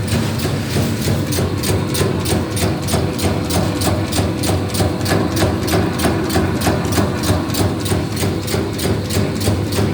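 Bakso meatball-forming machine running: a steady motor hum with an even clacking about four times a second.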